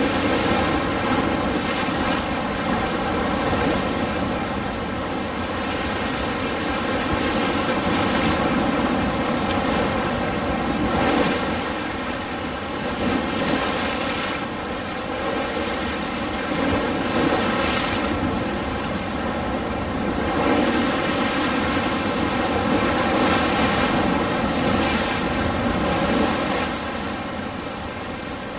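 Ocean waves: a continuous wash of surf that swells and breaks every few seconds, then ebbs.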